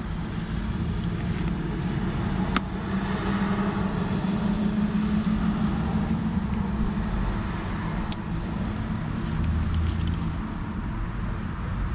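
Road traffic going past, a steady rumble of tyres and engines that swells twice as vehicles pass. Two light clicks come through, one a couple of seconds in and one near the end.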